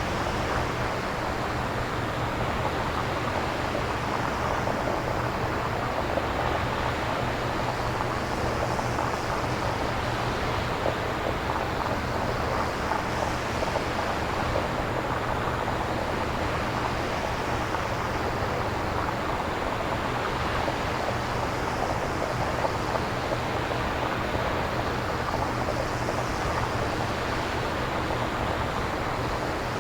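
Synthesized nature ambience: a steady bed of noise with a slow swell in its hiss about every four seconds, in the manner of surf.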